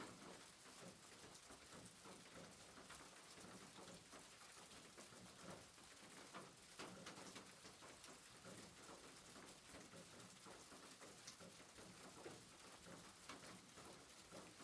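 Faint, steady rain falling on a rooftop: an even hiss of rain with many small scattered drop ticks.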